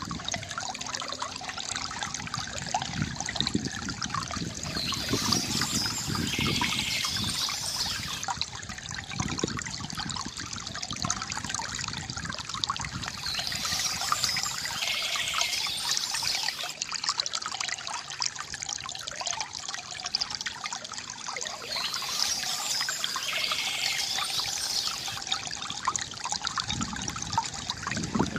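Water from a bamboo fountain trickling and pouring steadily, with bird chirps coming in three times, about nine seconds apart.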